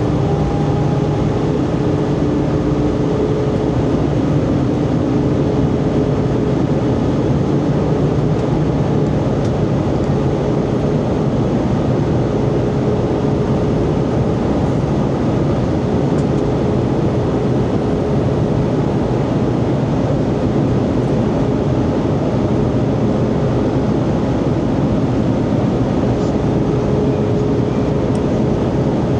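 Steady cabin noise inside an Airbus A320: a constant rush of airflow with engine drone and a few faint steady hums, one rising slightly near the start.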